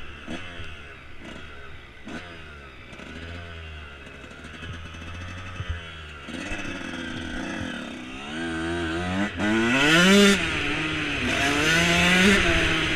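Dirt bike engine revving up and down repeatedly as it is ridden. It grows louder in the last few seconds, with its highest revs about ten seconds in.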